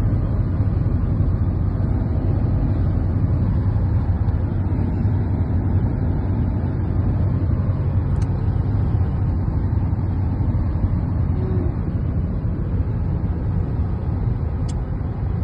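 Steady low rumble of a car driving, road and engine noise heard from inside the vehicle.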